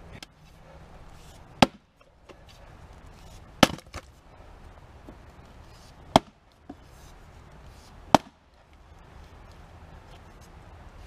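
Axe blows splitting a large fir round: four heavy strikes about two seconds apart, two of them followed by a lighter knock.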